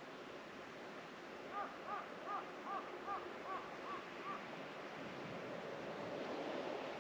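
A bird calling a quick run of about eight short, arched notes, about two and a half a second, over a steady background hiss like wind in foliage.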